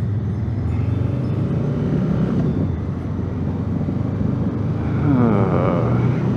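A 2019 Honda Africa Twin's parallel-twin engine running under way, its pitch rising as it pulls in the first couple of seconds. A louder wavering, warbling sound rides over it about five seconds in.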